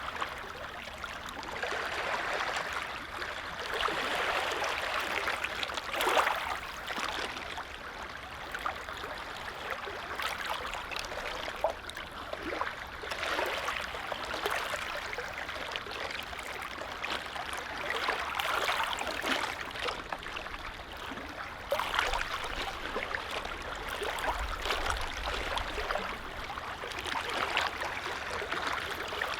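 Small lake waves lapping at the shore, a continuous wash of water that swells and fades every few seconds, with small sharp splashes.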